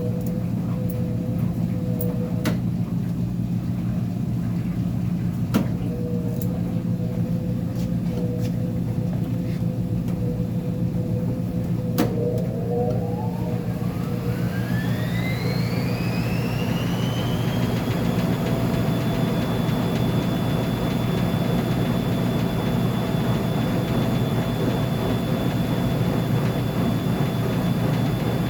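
Uni-Mac UniMat 35 commercial washer running, with a few sharp clicks over a steady low hum; about halfway through, its motor whine rises steadily in pitch for several seconds, then holds a high steady whine as the drum speeds up to spin.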